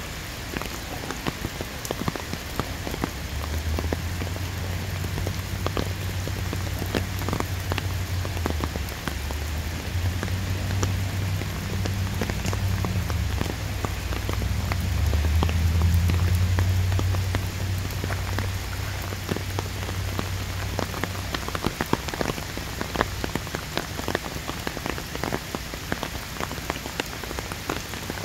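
Heavy rain falling, with a dense scatter of sharp drop hits close by. A low rumble swells from a few seconds in, is loudest around the middle, and fades out after about twenty seconds.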